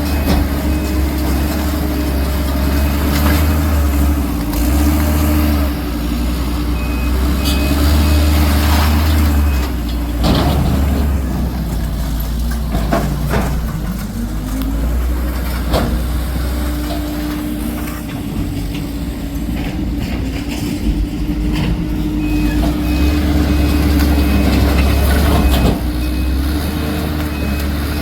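Heavy diesel work vehicle running with a deep, steady drone; the engine note dips and recovers about halfway through, and a few knocks sound. A reversing alarm beeps in regular pulses in the last few seconds.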